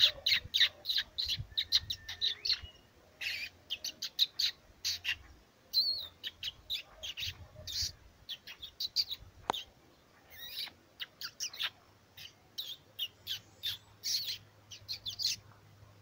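Birds singing and chirping: quick runs of short, high notes one after another, broken by brief pauses.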